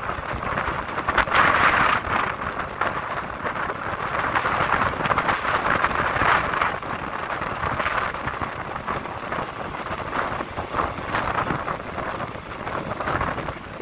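Passenger train running along the track, heard from an open carriage window: a steady rushing of wheels on rail mixed with wind buffeting the microphone.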